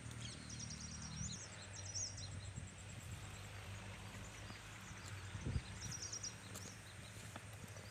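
Birds chirping, with short rapid high trills repeated several times over a low steady hum. There is one brief low thump about two-thirds of the way through.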